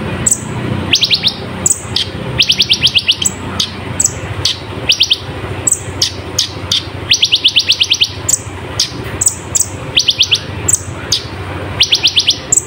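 Kolibri ninja sunbird singing: short fast trills of high, clicky notes, each under a second, alternating with single sharp high chirps, over a steady low hum.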